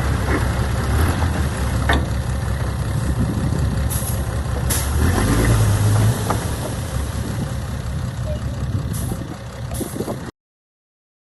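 Heavy earthmoving machine's diesel engine running steadily, with a few sharp clicks over it. The sound cuts off abruptly near the end.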